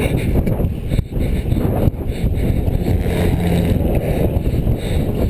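Wind buffeting the microphone of a camera riding on a moving road bicycle: a loud, steady rush with no break.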